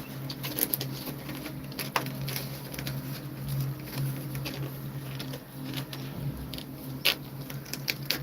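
Scattered small clicks and rustles from a mother cat and her kittens moving about, the sharpest about two seconds in and near the end, over a steady low hum.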